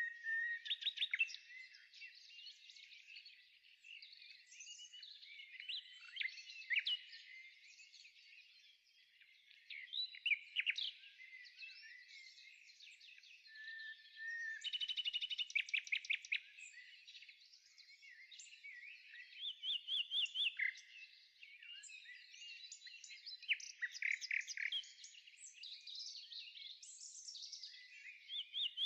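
Songbirds chirping and calling, with repeated short phrases and quick rattling trills, one of them about halfway through.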